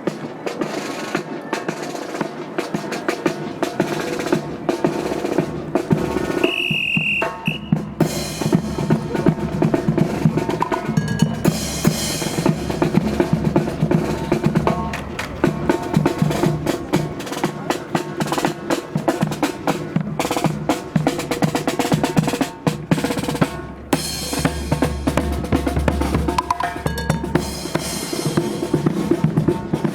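Marching brass band playing, with snare drum rolls and bass drum beats driving it.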